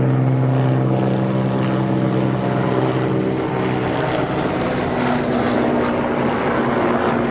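Helicopter running steadily: a loud engine and rotor drone with a low hum over a broad rush, its pitch shifting slightly around the middle.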